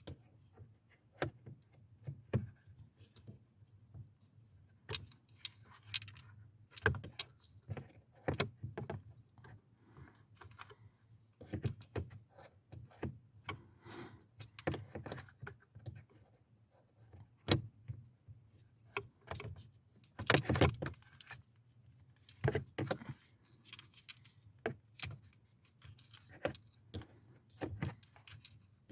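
Irregular clicks, taps and light metallic clatter, like tools, screws or keys being handled during hands-on work in a car's interior, with a louder clatter about two-thirds of the way through.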